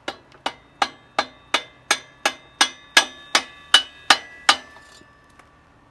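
Hammer blows on a long steel bolt used as a drift, driving the rear axle out of a Harley-Davidson Street 500's wheel. About a dozen evenly paced metallic strikes, roughly three a second, each with a short ring. They stop about four and a half seconds in.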